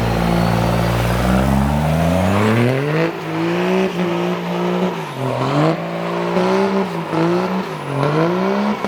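Car engine running with a deep rumble, then revved up about two seconds in. The revs then climb and drop again and again, roughly once a second, with hard throttle blips.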